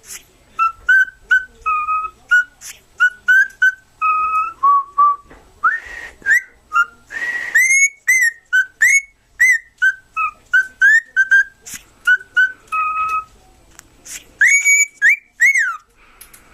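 Cockatiel whistling a tune: a quick string of short clear notes, many sliding upward, with a brief pause near the end.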